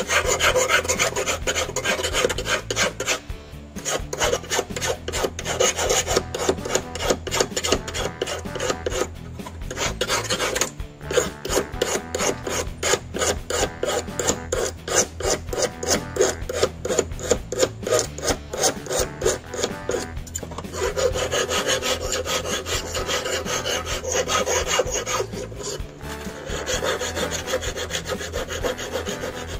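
Hand file rasping over steel wire to shape and sharpen a fishing-hook point, in rapid back-and-forth strokes, about four a second at the fastest, broken by a few short pauses.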